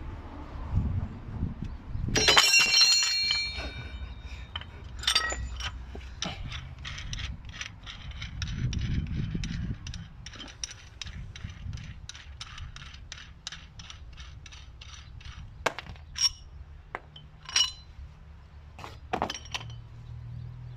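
A ringing metal clank about two seconds in, then a ratchet wrench clicking in a steady run of ticks, about two a second, as it turns the spindle of a wheel-bearing extractor tool; a few louder, sparser clicks near the end.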